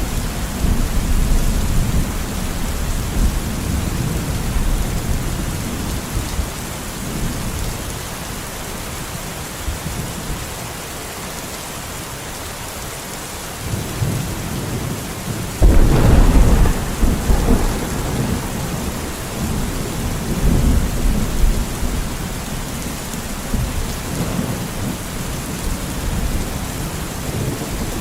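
Steady rain with rolling thunder: low rumbles fade early on, then about halfway through a loud, sudden thunderclap breaks out and rumbles on for several seconds over the rain.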